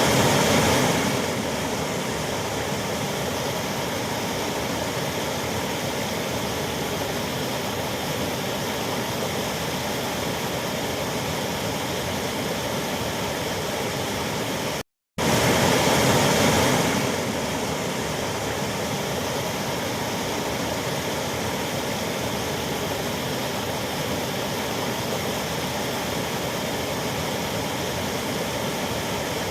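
Waterfall: a steady, even noise of falling water. It cuts out completely for a split second about halfway through, then comes back slightly louder for a couple of seconds before settling.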